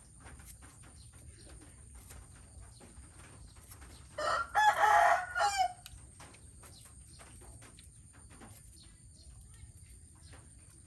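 Rooster crowing once, a single call of about a second and a half a little over four seconds in, ending on a falling note, over faint scattered clicks.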